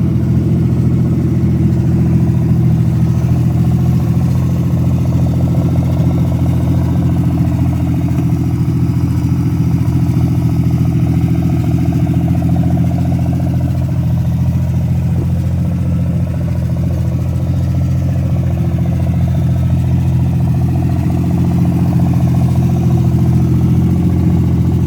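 Car engine idling steadily, exhaust coming straight out of extractors that are cut off short, with no mufflers. Its bad distributor cap leaves a little pop in the running.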